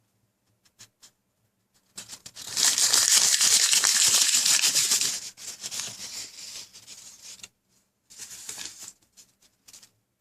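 Rustling, crinkling noise like paper or plastic being handled, starting about two seconds in and loudest for about three seconds, then trailing off into softer rustles and a few clicks.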